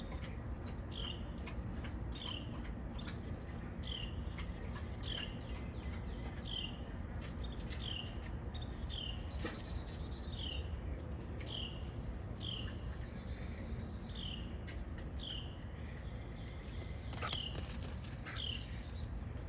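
A small bird repeating a short, sharp, falling chirp about three times every two seconds without letup, over a steady low background rumble. It sounds like an alarm call, fitting a parent bird scolding after its nestling was taken.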